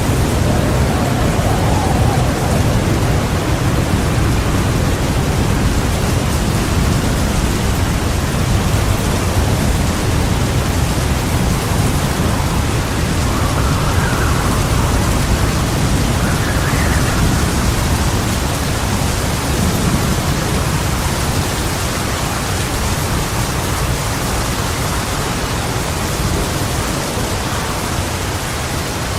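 Heavy rain falling steadily, with a continuous low rumble of thunder underneath and a few faint swells in the hiss.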